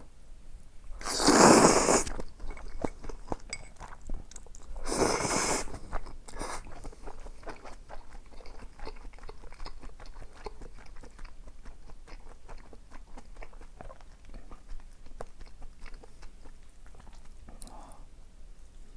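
A person eating close to the microphone: two loud bursts of about a second each, one near the start and one about five seconds in, followed by steady chewing for the rest.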